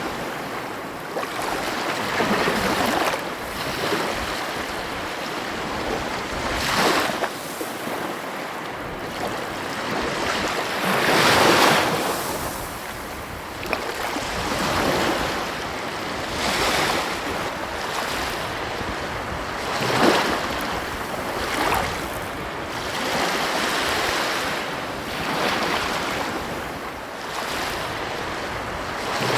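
Ocean waves breaking on a beach, a steady wash of surf that swells every few seconds, loudest about eleven seconds in and again near twenty seconds, with some wind on the microphone.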